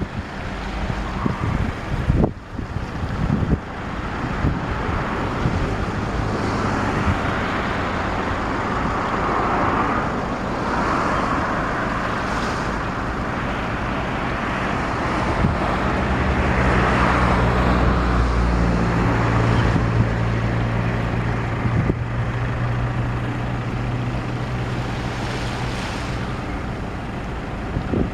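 Wind buffeting the microphone over a steady wash of outdoor noise. A motor engine's low hum comes in about halfway through and holds for roughly ten seconds.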